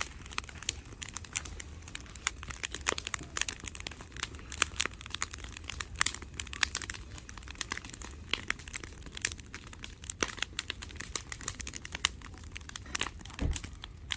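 Firewood burning in an open fire pit, crackling with many irregular sharp snaps and pops, over a low steady rumble.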